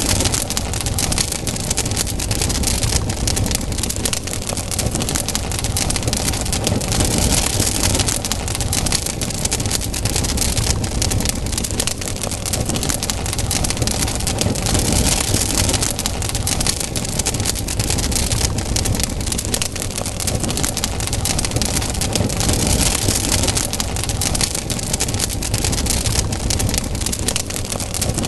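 Campfire burning: wood crackling densely and without pause over a low rumble of the flames, with a hiss that swells and eases every few seconds.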